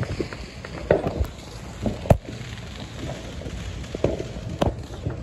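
Fireworks going off: an irregular string of bangs and thuds, with sharp cracks about two seconds in and again near the end.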